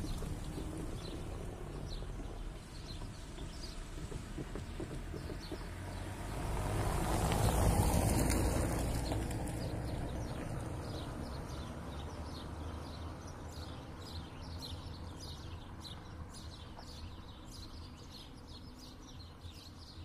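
Low rumble of a passing vehicle that swells to its loudest about seven or eight seconds in and then slowly fades. Small birds chirp over it again and again through the second half.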